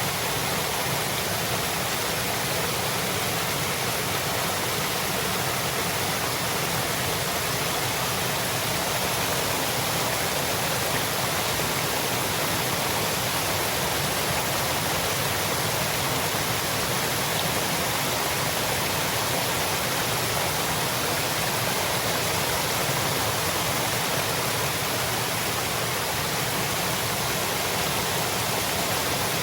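Waterfall: water pouring and splashing in a steady, even rush with no pauses or changes.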